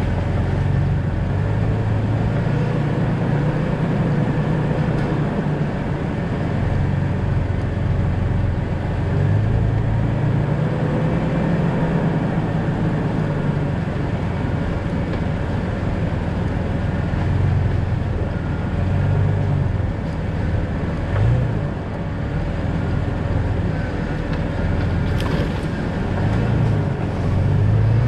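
2000 Jeep Cherokee XJ driving: steady engine and road noise, the engine note rising and falling a little as it goes.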